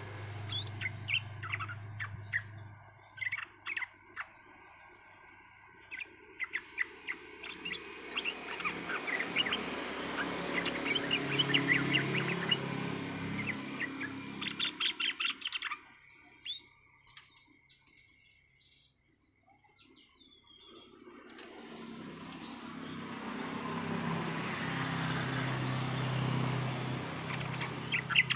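Yellow-vented bulbul (trucukan) calling: scattered short chirps and quick runs of notes. Under them a rushing background noise swells up twice and falls away in between.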